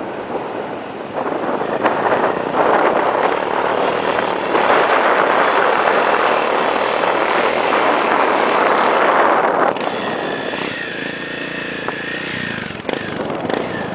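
Yamaha XT600 single-cylinder four-stroke motorcycle engine running under way, with a dense rushing noise. About ten seconds in, the sound drops to a quieter, steadier engine note.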